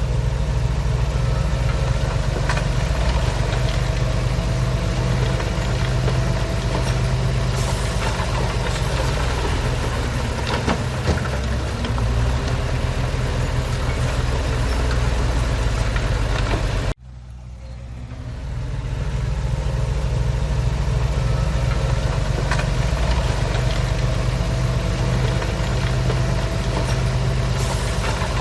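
Heavy diesel earthmoving machinery running steadily with a deep, even engine rumble. About two-thirds of the way through, the sound cuts out abruptly and fades back up within a second or two.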